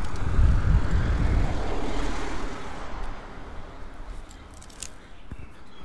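A car passing close by on the street, a rushing tyre and engine noise that swells at the start and fades away over about three seconds.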